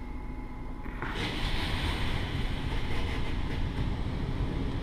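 Automatic car wash spraying clear coat polish onto the car, heard from inside the cabin: a steady low rumble, with a hissing spray hitting the body starting suddenly about a second in.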